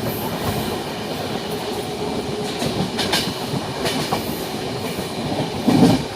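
Moving train heard from on board: steady rumble of the wheels on the track with clickety-clack knocks, one sharper knock about halfway and a couple of heavier thuds near the end.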